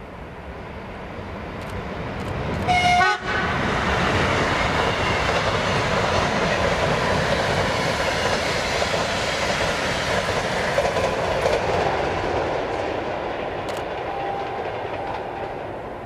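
ES1 "Lastochka" (Siemens Desiro RUS) electric multiple unit passing at speed. It gives a short horn blast about three seconds in, then a loud, steady rush of wheels on rail that fades toward the end as the train goes by.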